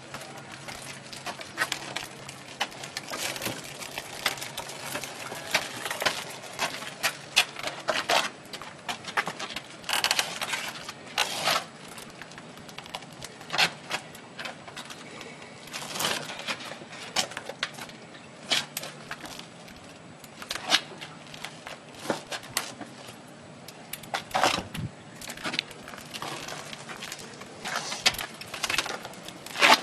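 Irregular clicks, knocks and clatter of hands working with hardware, several every few seconds, with a faint steady hum underneath.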